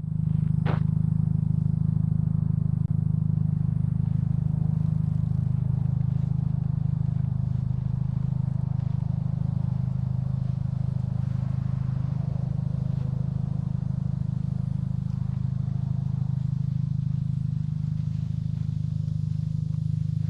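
A vehicle engine running steadily: a continuous low hum, with a brief sharp chirp a little under a second in.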